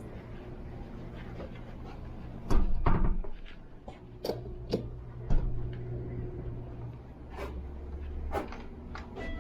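A string of knocks and clunks over a steady low hum, the loudest a heavy double thump about two and a half seconds in, with lighter knocks scattered after it.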